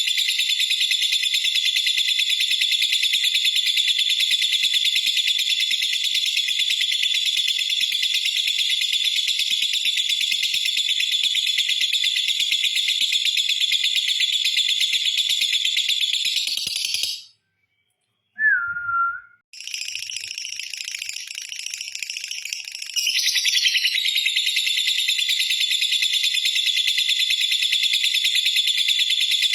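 Lovebird's long 'ngekek' song: a dense, rapid, high-pitched chattering trill held without pause. A little past halfway it breaks off for about a second, with one short lower call in the gap, then starts again, softer at first and then back at full strength.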